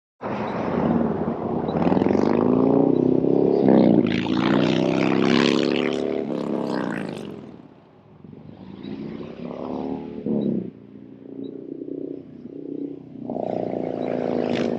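Harley-Davidson Milwaukee-Eight V-twin through a Vance & Hines stainless 2-into-1 upsweep exhaust, accelerating through the gears. The pitch climbs three times, dropping at each shift, then settles into a lower, uneven rumble near the end.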